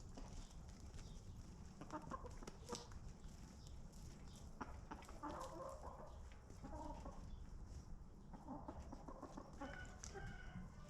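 Chickens clucking faintly in several short bouts, over a steady low background noise.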